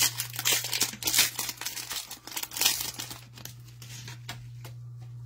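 Crinkling and rustling as trading cards and their foil pack wrapper are handled, busy for about three seconds and then dying down, over a low steady hum.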